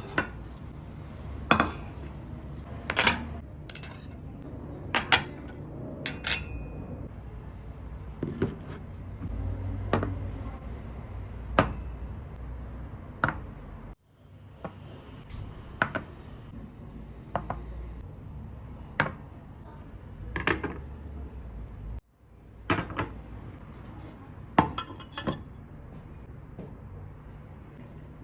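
Dishes and cutlery clinking and being set down, a sharp clink every second or two, over a low steady background hum that cuts off abruptly twice.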